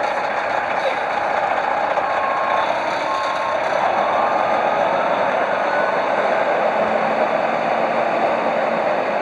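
Heavy diesel truck running steadily, with a reversing alarm giving a few faint beeps in the first half.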